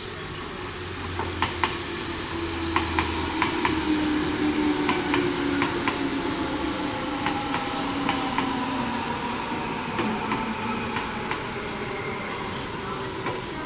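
Tobu 10050-series and 10000-series electric commuter train pulling into a station and slowing. Its wheels clack over rail joints in uneven clicks, and a whine falls slowly in pitch as the train loses speed.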